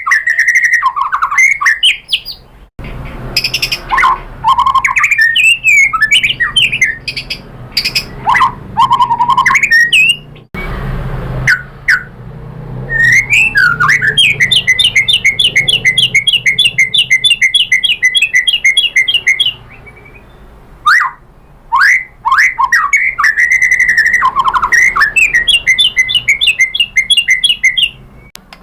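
White-rumped shama (murai batu) singing loudly. Quick varied whistled phrases are broken by long runs of rapid, evenly repeated notes. The song stops abruptly twice, with a brief hiss, as if spliced.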